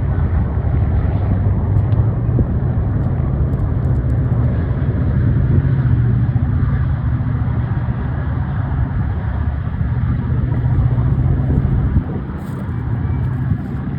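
Diesel freight locomotives running past with a steady, loud, low engine rumble, and a few faint clicks near the end.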